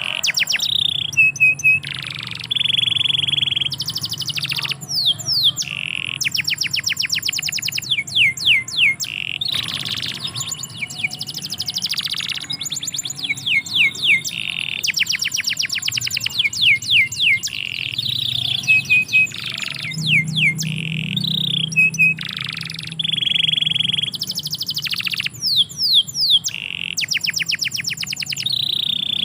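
Domestic canary singing a long unbroken song: rapid trills of quick down-slurred notes alternating with steady held whistled notes.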